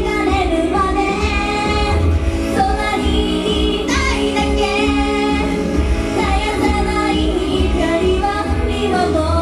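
Female voices singing a pop song over a loud backing track with a heavy, steady bass beat, played through a live venue's sound system.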